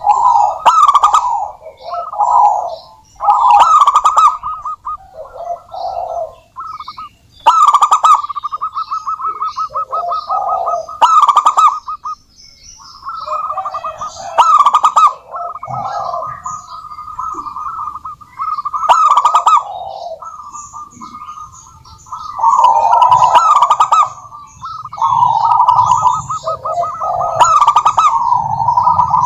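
Zebra doves singing: runs of rapid, pulsed, trilling coos that repeat phrase after phrase, with more than one bird's calls overlapping.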